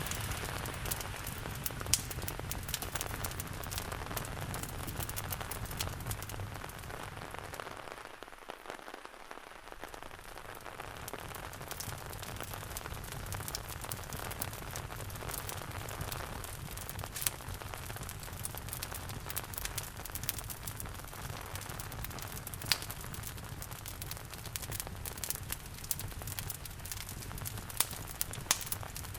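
Steady rain mixed with a wood fire crackling in a fireplace, with occasional sharp pops from the fire. The sound thins out briefly about eight seconds in, then returns.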